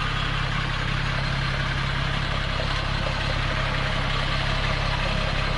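An engine idling steadily: a low, even hum under a wash of noise.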